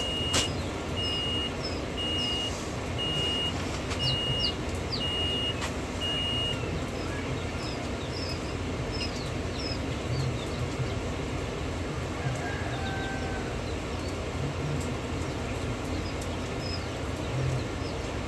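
A steady run of high electronic beeps, a little over one a second, like a backup alarm, that stops about six seconds in. Short high bird chirps come and go over a steady low rumble.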